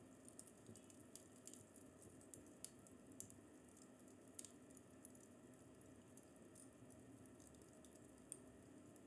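Faint fireplace crackle: irregular small pops and snaps over a low steady hiss.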